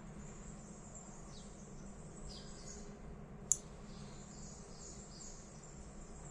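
A single sharp click about halfway through, over a faint steady background with a few short, high, falling chirps.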